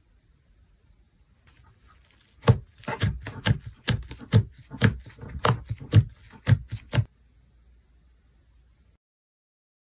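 Slime being worked by hand, pressed and squeezed: a run of sharp clicks, about two a second, for about four seconds, starting a couple of seconds in.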